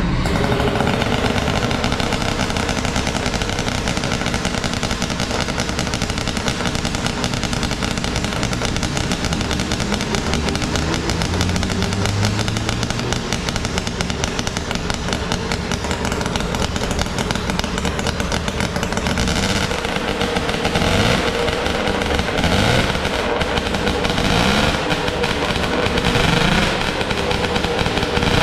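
FL500 formula car engine starting and running at a fast idle. It is revved in several short rising blips through the last part.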